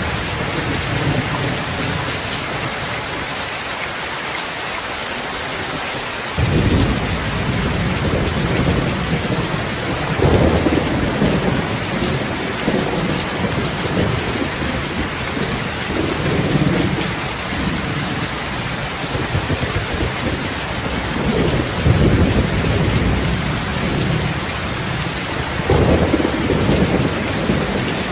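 Heavy rain falling steadily, a dense even hiss. About a quarter of the way in, thunder breaks in suddenly with a deep rumble that rolls on in several swelling waves.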